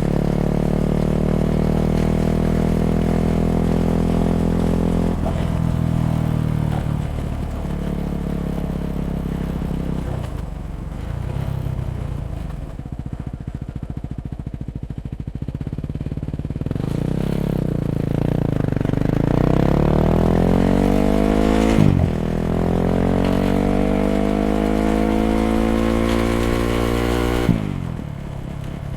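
Yamaha WR250X's single-cylinder four-stroke engine through an FMF Q4 exhaust, revving up through the gears with the pitch rising and dropping at each upshift. Midway the throttle closes and the engine winds down, stuttering on the overrun, before it accelerates hard again.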